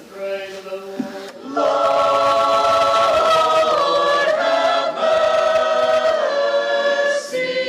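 A cappella church choir singing Byzantine-rite liturgical chant in held, sustained chords. It is softer at first, becomes much louder about a second and a half in, and eases off near the end.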